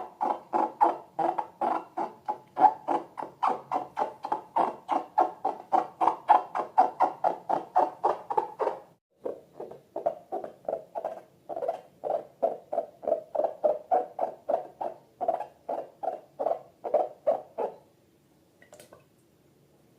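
Slime squelching rhythmically as it is worked, about four squelches a second. There is a brief pause about nine seconds in, and the squelching stops near the end.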